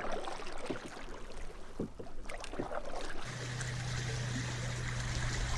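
Canoe being paddled: water sloshing with scattered light knocks and splashes of the paddle. About three seconds in, a steady low hum joins and holds.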